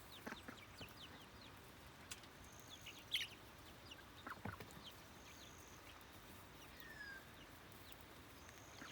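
Young chickens peeping and clucking faintly: many short, scattered high chirps, with one louder call about three seconds in.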